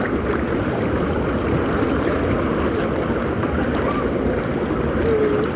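Steady rush of lazy-river water, mixed with wind on the microphone, with a few faint distant voices.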